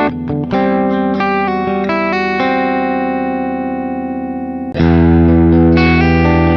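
Electric guitar with a Seymour Duncan bridge humbucker, played through an amp: a few quick picked notes and chord changes, then a chord left to ring and fade for a couple of seconds, and a louder chord struck nearly five seconds in and held.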